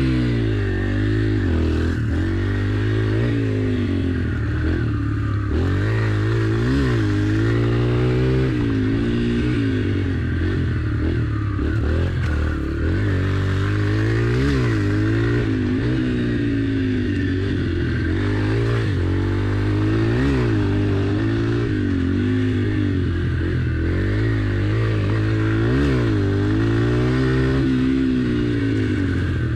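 Yamaha TT-R pit bike's four-stroke single-cylinder engine being ridden through a run of tight turns, its pitch climbing and dropping over and over as the throttle is opened out of each turn and rolled off into the next.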